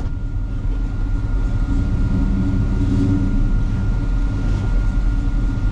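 1965 Chevelle's big-block 396 V8 with dual exhaust running as the car is driven, a steady low rumble heard from inside the cabin.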